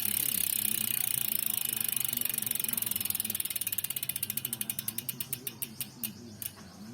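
Koozer CX420 bicycle rear hub freewheeling: the freehub's ratcheting pawls click rapidly, the clicks slowing and spreading apart as the wheel spins down, ending about six and a half seconds in.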